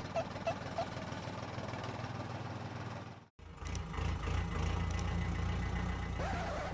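Steady engine idling rumble that cuts out briefly about three seconds in, then returns louder and steady. A few short chirps sound right at the start.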